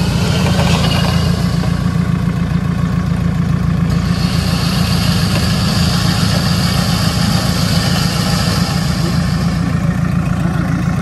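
Off-road 4x4's engine running steadily at low revs while the vehicle crawls slowly across a steep grassy slope.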